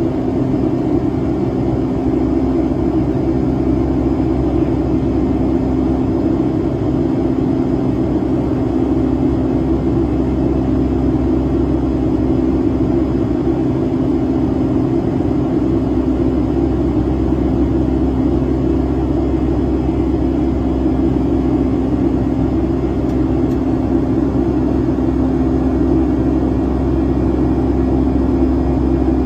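Pratt & Whitney engines of a Boeing 757-200 heard inside the cabin: a steady, even rumble with a strong low hum.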